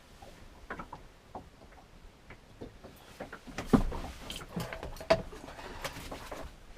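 Irregular knocks and clatter of gear against a small boat, with a sharp knock almost four seconds in and another about a second later.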